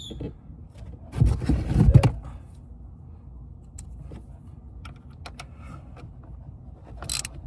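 Small metal clicks and clinks as a nut is fitted onto a battery-terminal bolt and the wiring is handled. A louder scraping, rustling stretch of handling comes about a second in and lasts about a second, and a sharper clink comes near the end.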